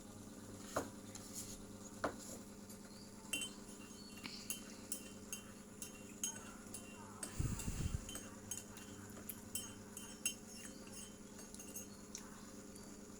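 Cutlery and dishes clinking: scattered light clinks and taps, with a heavier low knock about seven and a half seconds in.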